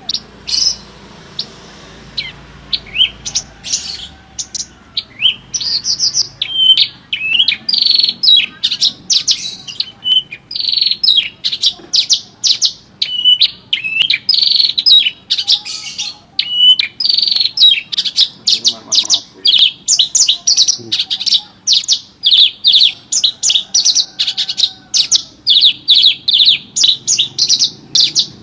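Horsfield's bush lark (branjangan) singing a fast, unbroken string of short high chirps and trills. The notes come sparsely at first and become dense and steady after a few seconds.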